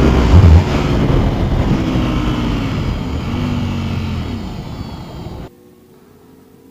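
Sport motorcycle engines at full throttle, revving up through the gears with a loud burst about half a second in, then slowly fading. At about five and a half seconds it cuts off to a much quieter steady hum.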